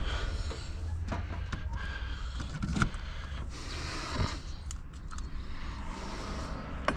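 Hotsy 550B pressure washer running steadily with a low hum just after being plugged in, with a few clicks and dull knocks over it.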